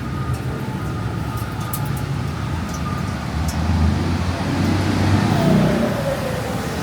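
Street traffic: motor vehicles running past, one passing louder about four seconds in, with a whine falling in pitch as it goes by.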